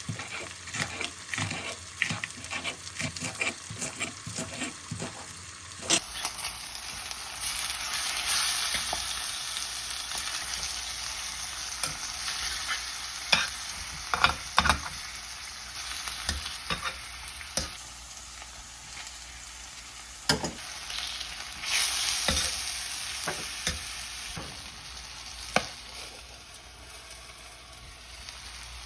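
Food frying in a pan: about six seconds of quick repeated utensil strokes, then a steady sizzle with scattered sharp knocks of a utensil against the pan.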